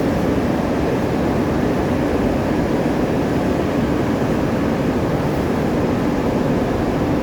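A boat's engine running steadily while underway: a constant low drone with a broad rush of noise, unchanging throughout.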